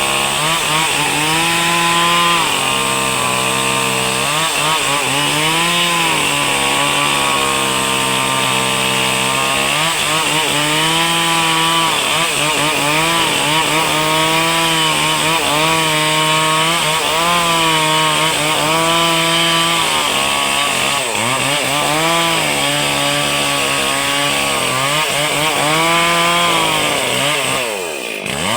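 Small high-revving engine running hard, its pitch repeatedly sagging and recovering as if taking load, then gliding down and dipping briefly near the end.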